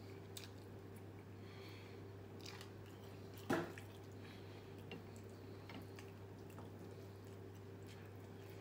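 Close mouth sounds of eating fried chicken and rice by hand: faint chewing and small wet clicks of the mouth and fingers, with one sharper click or knock about three and a half seconds in. A steady low hum runs underneath.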